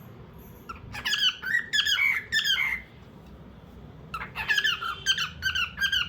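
Cockatiel chirping in two bouts of quick, pitched chirps, the first about a second in and the second about four seconds in, over a steady low hum.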